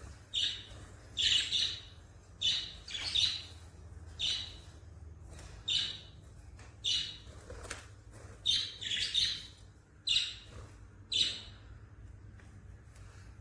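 Pet birds chirping: about a dozen short, sharp calls, several in quick pairs, coming every second or so.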